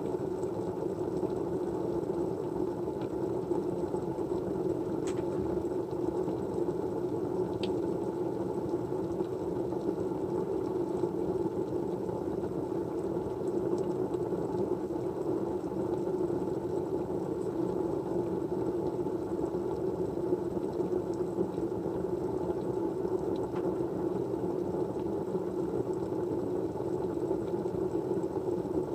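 Steady white-noise hum of a study room, even throughout, with a few faint light clicks: one about five seconds in, one near eight seconds and one past twenty-three seconds.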